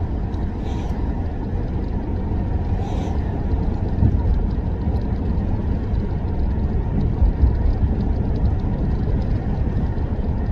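Dodge Charger driving, heard from inside the cabin: a steady low rumble of road and engine noise, with a couple of brief louder jolts about four and seven seconds in.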